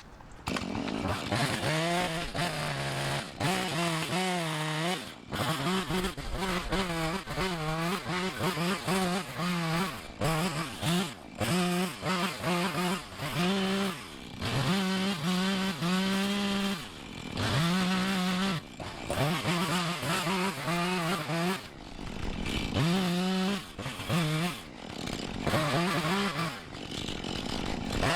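Two-stroke chainsaw limbing a felled tree: the engine is throttled up to full revs and let back to idle again and again, a second or two at a time.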